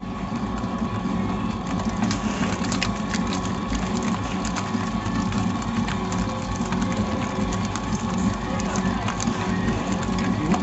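Electric mixer running steadily, beating butter and sugar, with a constant motor hum and light clicks from the beaters.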